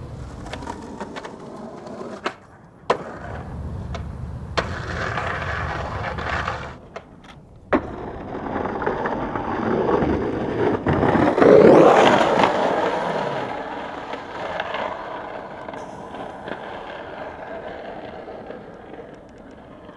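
Skateboard wheels rolling on concrete, with a few sharp clacks in the first several seconds. The rolling swells to a loud rush about halfway through as the board drops down a steep plunge, then eases off.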